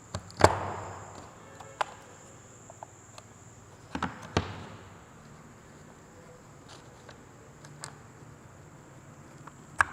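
Pieces of a soap mould being handled and fitted together: a few sharp knocks, the loudest about half a second in, a pair about four seconds in, and another near the end.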